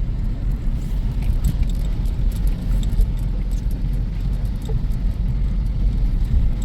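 Wind buffeting the microphone in a snowstorm: a steady, low, fluctuating rumble.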